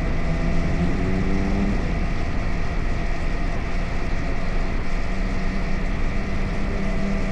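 Yamaha MT-03's parallel-twin engine running at a steady pitch, heard from on the motorcycle while riding.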